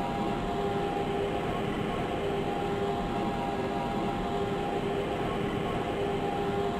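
Lisbon Metro ML90 train running at steady speed, heard from inside the carriage: a constant rumble with a steady whine that neither rises nor falls.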